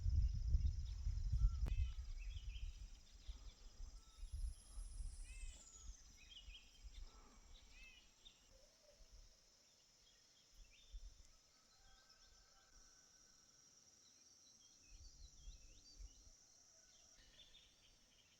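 Outdoor ambience: a steady high insect drone with scattered short bird chirps and one high falling whistle. Low rumbling, like wind on the microphone or handling, sits under the first few seconds.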